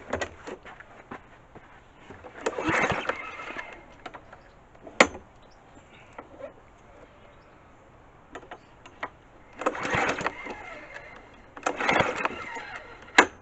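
Mountfield 414 lawnmower engine being pull-started three times, each tug of the recoil starter cranking it for about a second without it firing: the engine won't start. A couple of sharp clicks in between.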